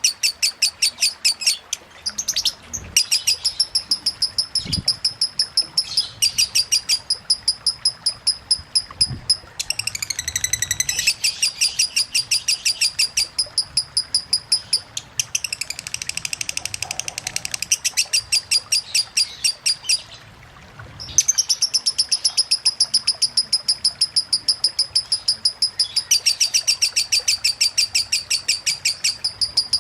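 Lovebird singing a long 'ngekek' chatter, a fast run of shrill repeated notes several a second, in the continuous 'konslet' style. It breaks off briefly about two-thirds of the way through.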